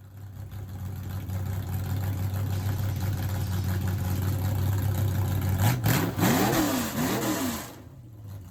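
Garden tractor engine running at a steady speed. About six seconds in there is a sharp click, then the engine is revved up and back down twice before its sound drops away.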